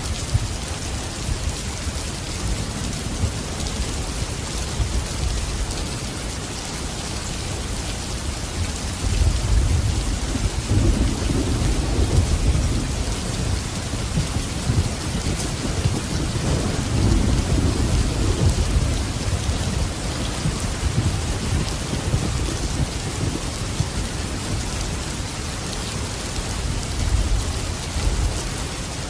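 Steady heavy rain with rolling thunder: a low rumble swells about a third of the way in and again past the middle.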